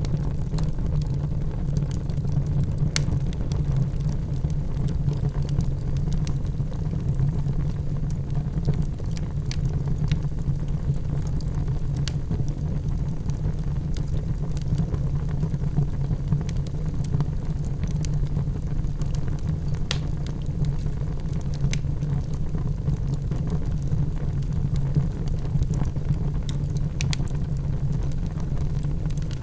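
Wood fire in a fireplace burning with a steady low rumble and occasional sharp crackles and pops at irregular intervals.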